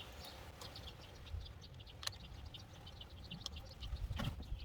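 Small birds chirping in the background, short irregular high chirps throughout, with a single sharp click about two seconds in.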